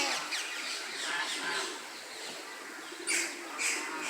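Mixed birds chirping and calling in an aviary, with two louder calls in quick succession about three seconds in.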